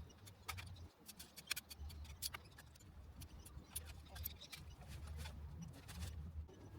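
Irregular light clicks and ticks over a low rumble.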